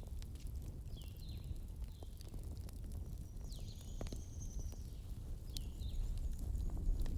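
Campfire crackling, with scattered sharp pops over a steady low rumble. Short high chirps, likely a bird, come every second or so, with one longer held note about four seconds in.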